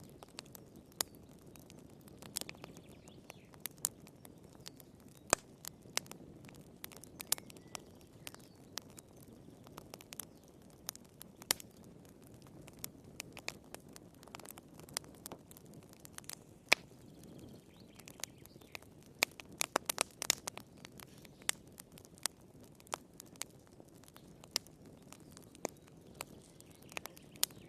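Wood fire crackling in a fireplace: irregular sharp pops and snaps, a few each second with a brief flurry past the middle, over a low, steady hiss of the flames.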